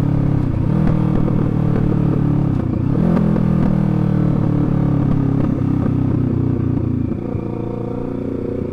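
Sportbike engine running while riding, a steady multi-toned engine note whose pitch shifts about three seconds in and which eases off slightly near the end.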